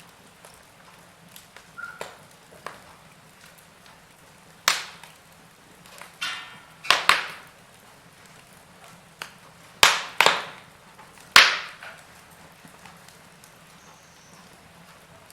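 Logs burning in a fireplace: a low, quiet burn broken by about six sharp pops and snaps, some in quick pairs. There is a brief hiss just before the middle.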